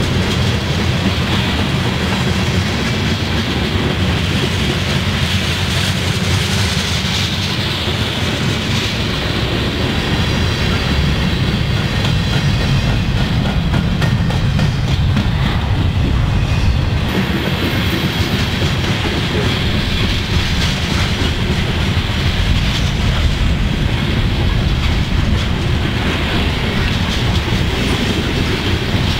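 Freight train cars, covered hoppers and double-stacked container well cars, rolling past on the near track: a loud, steady noise of steel wheels on rail.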